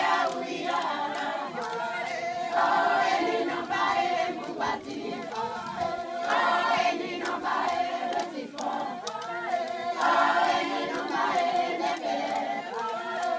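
A group of women singing together unaccompanied, in phrases of a few seconds each.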